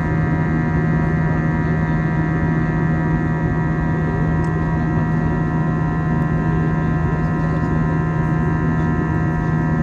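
Steady drone inside an Airbus A320-family airliner's cabin: engines and air systems humming at an even pitch, with a strong low tone and a stack of steady higher tones over a rushing background.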